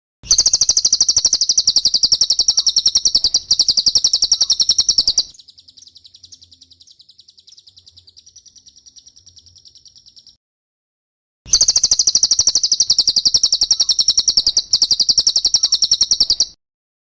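Recorded song of a cililin: a loud, very fast, high-pitched trill in long phrases. A fainter stretch of trilling comes between the two loud phrases, and there is a short pause before the last phrase.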